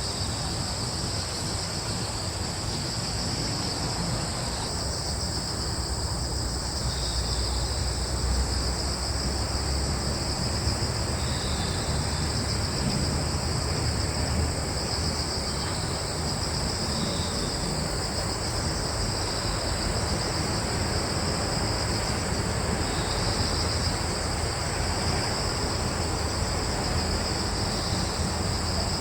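A steady chorus of crickets trilling in two high bands, with a few short, fainter chirps now and then and a low rumble of breeze underneath.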